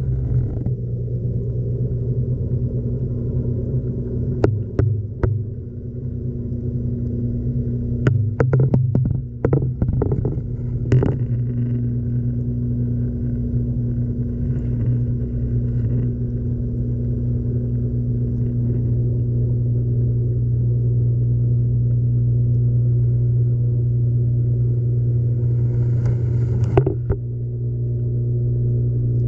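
LG washing machine running with a loud, steady low hum heard from inside the drum, while the camera and glow sticks knock against the drum: a couple of knocks about four to five seconds in, a cluster a few seconds later, and one more near the end.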